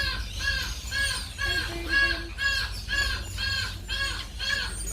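A bird calling over and over in short, evenly spaced squawks, about two a second.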